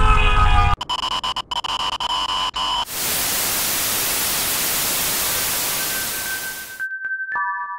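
Distorted, crackling electronic hum that breaks up and drops out, then about four seconds of steady, loud television static hiss that cuts off suddenly. Faint synth tones come in near the end.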